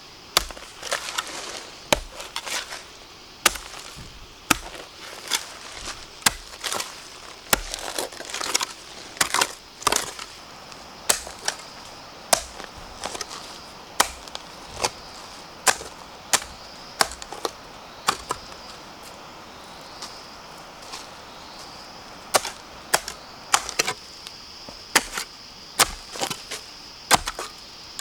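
Sharp chopping strokes of a blade into bamboo, irregular, about one or two a second with short pauses, over a steady high-pitched hum.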